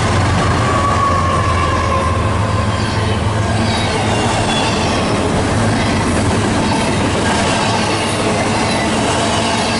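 Train passing close by: the steady rolling rumble of wheels on rail with some clickety-clack and faint wheel squeal. A low locomotive drone fades after the first few seconds.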